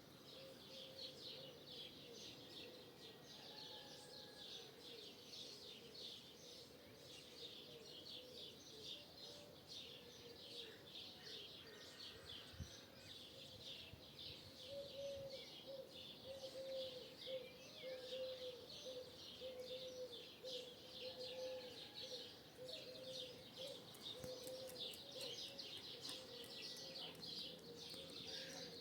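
Faint dawn chorus of a large flock of starlings: dense, unbroken high chirping and chattering, with a steady, slightly wavering lower tone beneath it.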